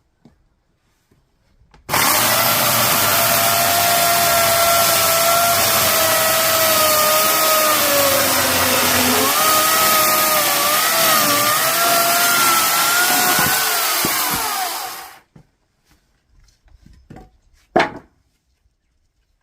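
Electric chainsaw starts about two seconds in and runs with a steady whine cutting through firewood; its pitch sags under load partway through the cut, then it winds down and stops. A few light knocks follow, one sharper near the end.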